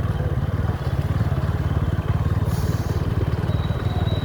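Motorcycle engine running steadily under way, a continuous low rapid pulsing rumble. There is a brief hiss about two and a half seconds in.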